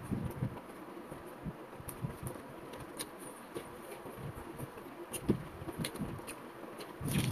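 A person chewing a piece of fried bread pakora, with soft low chewing and scattered small mouth clicks, one sharper click about five seconds in.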